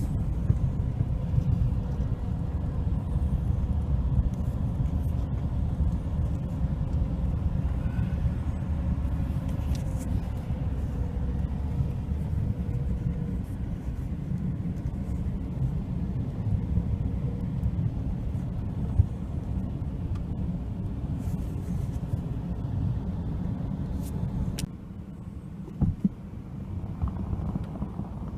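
Wind buffeting the microphone: a steady low rumble that eases off slightly near the end, with a few faint clicks.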